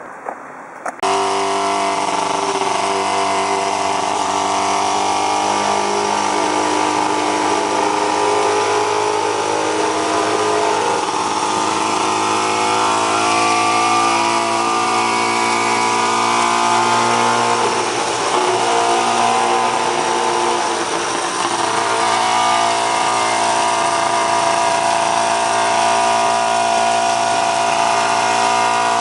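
Scott two-stroke parallel-twin motorcycle engine running at a steady, high-pitched speed under way, heard from a car driving alongside. The sound cuts in abruptly about a second in, and the note wavers briefly about two-thirds of the way through.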